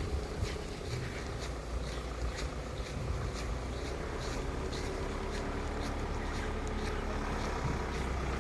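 A vehicle engine running with a steady low rumble, with faint light ticks repeating about three times a second.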